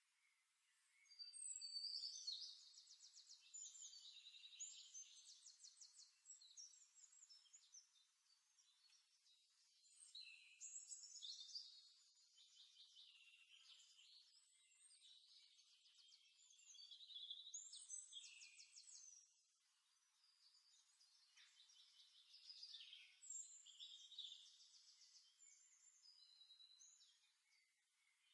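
Faint, high birdsong: phrases of chirps and rapid trills, each a few seconds long, recurring with short pauses between them.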